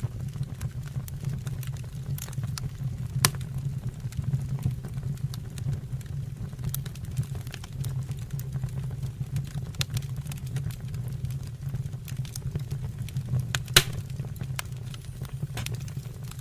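Wood fire burning in a fireplace or stove, crackling with scattered sharp pops over a steady low rumble; two louder pops, about 3 seconds in and near the end.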